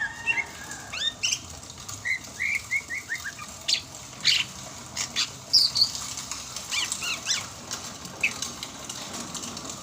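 Sumatran greater green leafbird (cucak hijau) singing a varied run of short chirps and whistled notes, with a quick series of rising notes about two to three seconds in and a few short sharp clicks among them.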